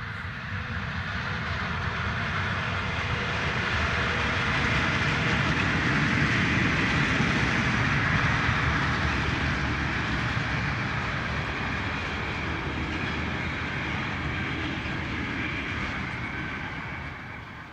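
Electric-hauled freight train passing close by, its wagon wheels running and clattering on the rails in a steady noise. The noise builds to its loudest about halfway through as the wagons go by, then cuts off abruptly at the end.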